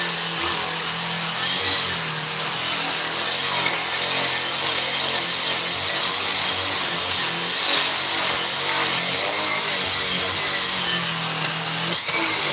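Handheld electric power tool running steadily while working wood, a continuous rushing noise with a faint high motor whine.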